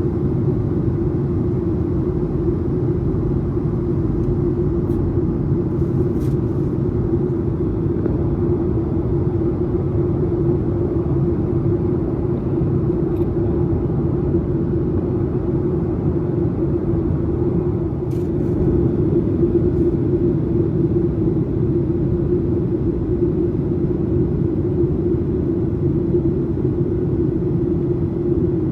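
Cabin noise inside a Boeing 737-800 in flight: a steady drone from its CFM56-7B engines and the airflow, with a constant low hum. A few faint ticks sound about six and eighteen seconds in.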